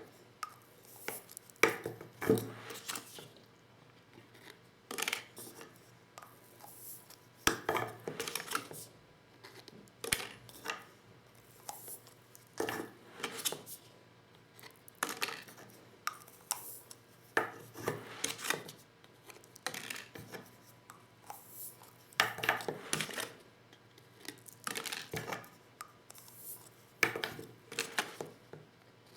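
Clicking and clattering of a Lee Loader hand-reloading kit and 12-gauge shotgun shells being handled, in short bursts of sharp knocks every two to three seconds.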